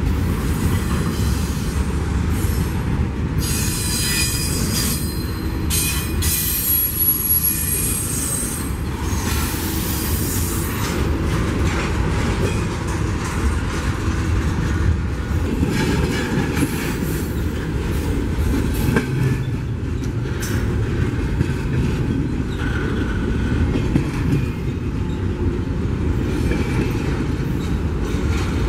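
Double-stack intermodal freight train passing close by: steady wheel-on-rail noise from the container well cars, with a high-pitched wheel squeal between about three and eleven seconds in.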